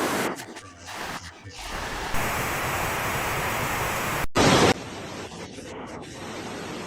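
Steady rushing noise with a few broken voice-like sounds at the start. About four seconds in there is an abrupt cut, then a short loud burst of noise, then quieter steady noise.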